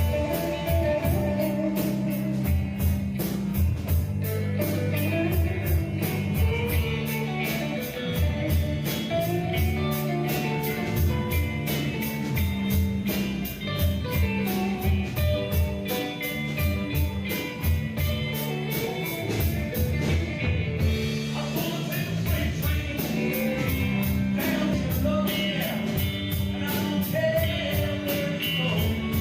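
Rock band playing a song with a singer: electric guitar, bass and drums, with a steady, fast cymbal beat.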